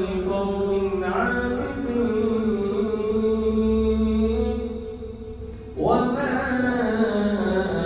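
A man reciting the Quran in a slow melodic chant, drawing out long held notes; he breaks off and starts a new phrase about six seconds in.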